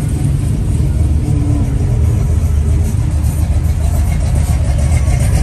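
Truck engine running steadily: a deep, even rumble with no revving.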